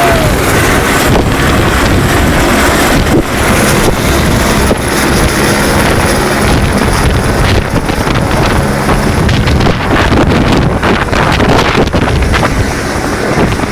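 Police helicopter's turbine and rotor running loud close by, with gusts of rotor wash buffeting the microphone.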